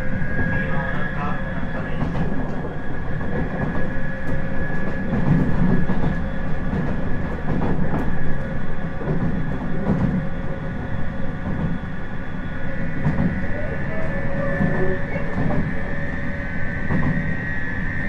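Inside a JR 719 series electric train car under way: a steady motor whine, a pitched tone that slowly rises as the train picks up speed, over the rumble of wheels on rail with occasional rail-joint clicks. The car is a known 'abnormal-noise' unit whose whine is called a jet sound.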